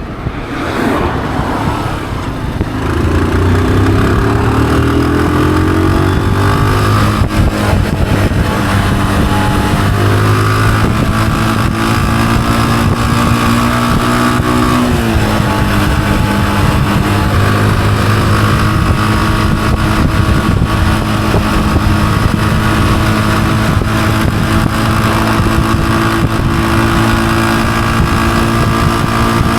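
Honda CG125's single-cylinder four-stroke engine accelerating, its pitch climbing for several seconds, then dropping in pitch with a gear change about halfway through and running steadily at cruising speed.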